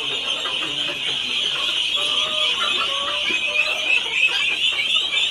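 Many birds calling and chattering at once: a continuous, dense high-pitched din.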